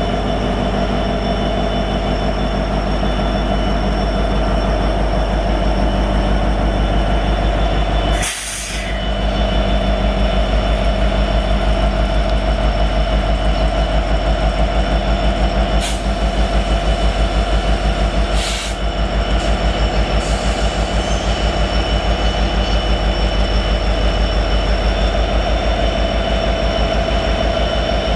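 Freight train wagons rolling past close by, with a fast, even rhythmic pulsing in the low rumble and steady high-pitched wheel squeal. The sound drops briefly twice.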